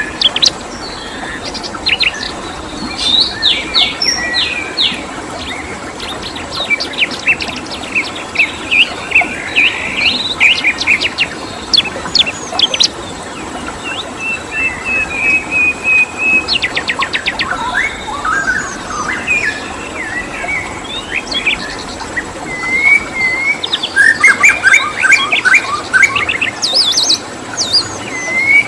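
Several wild songbirds chirping and singing in quick, varied phrases, including a held whistle and a fast trill around the middle, over a steady hiss of running water.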